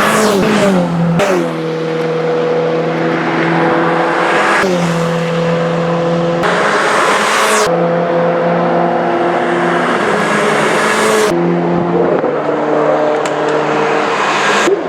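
Renault Clio Cup race cars' engines running hard at high revs. The pitch drops during the first second, then holds fairly steady. The sound jumps abruptly several times, as one stretch of engine noise cuts to another.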